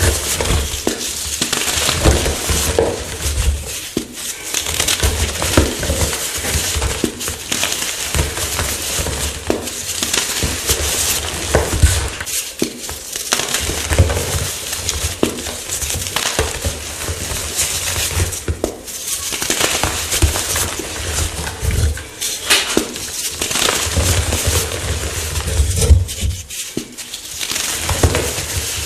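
Chalk blocks being crushed: a dense, continuous crunching and crackling as the chalk crumbles, broken by a few short pauses.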